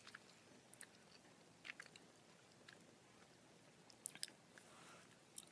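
Close-miked chewing of gummy bears: sparse, short, wet mouth clicks and smacks, a few at a time with quiet gaps between, and a small cluster about four seconds in.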